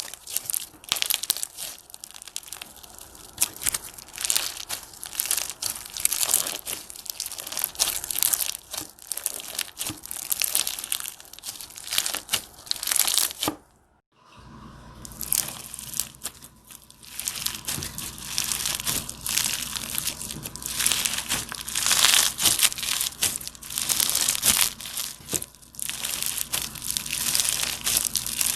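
Slime being squeezed, pressed and stretched by hand, giving a dense run of crinkling, crackling pops. It cuts out briefly about halfway, and after that a faint low hum runs under the crackling.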